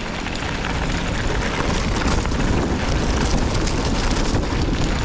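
Wind buffeting the microphone while on the move: a steady low rumble, growing a little louder about a second in, with scattered small rattles and crunches.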